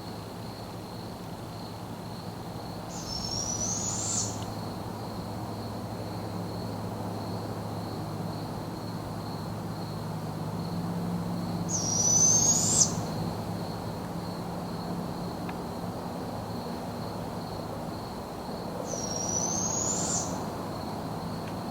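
A bird in the trees giving a loud, thin, high screech that rises in pitch, three times about eight seconds apart, each call lasting about a second.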